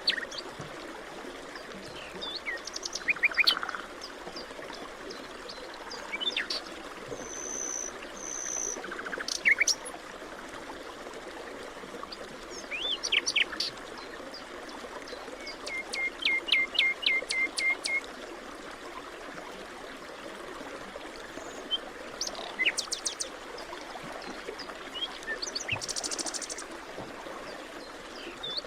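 Several birds calling and singing in short chirping phrases and trills over a steady rushing background, likely running water.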